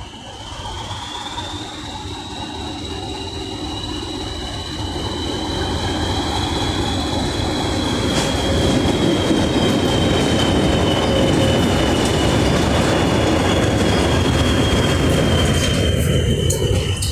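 Two English Electric Class 20 "Chopper" diesel locomotives working under power, their eight-cylinder engines growing steadily louder as they come closer and then easing off near the end. A high whistling tone rides over the engine note throughout, drifting slowly in pitch.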